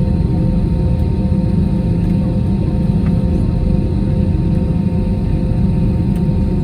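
Airbus A321 airliner's jet engines running, a steady low rumble with a faint constant hum of two even tones over it.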